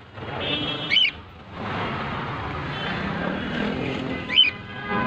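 Cockatiel giving two short chirps, one about a second in and one near the end, over steady traffic noise.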